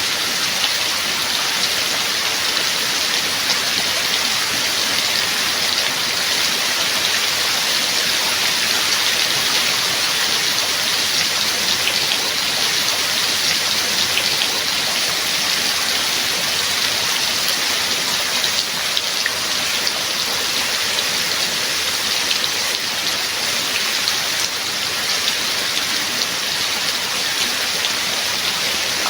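Rain falling steadily: a dense, even hiss of drops with fine individual drop ticks.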